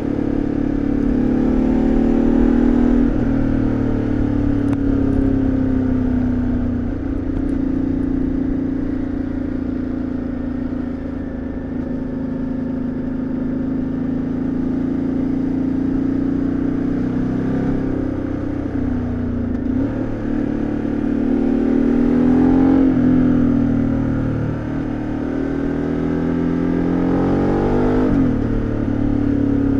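2013 Ducati Multistrada 1200S's Testastretta L-twin engine and exhaust under way, rising and falling in pitch as the rider accelerates and eases off, with several quick drops in pitch at gear changes.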